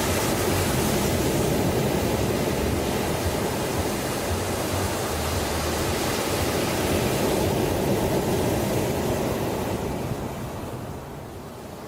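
Ocean waves washing onto a shore: a steady roar of surf that ebbs near the end as a wave draws back.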